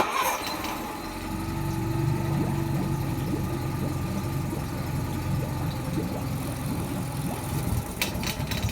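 Cold start of a Nissan 20 hp four-stroke outboard on its electric starter with the choke in: it catches at once, builds up over the first second, then runs steadily at the raised warm-up idle. It is a little cold.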